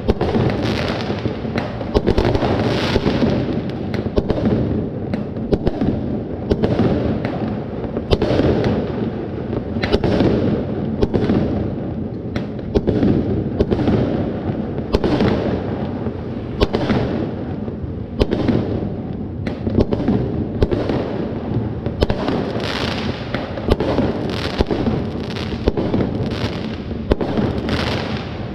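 Many fireworks and firecrackers going off at once: a continuous barrage of sharp bangs and crackles, dozens of reports over a dense steady din.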